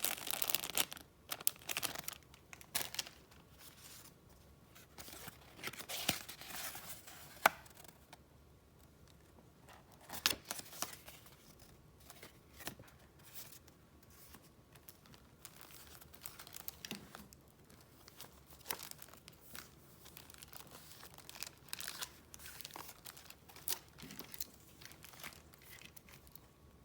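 Paper and wrapping handled close to the microphone: irregular crinkling, rustling and tearing-like crackles. They are busiest in the first few seconds, then thin out to scattered soft rustles and taps.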